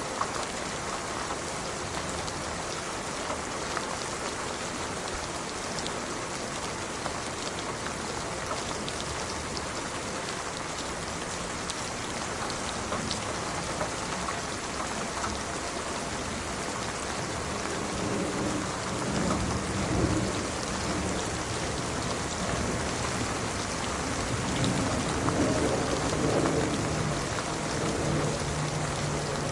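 Steady rain falling on a surface. Low rolling thunder comes in about halfway through and swells twice near the end.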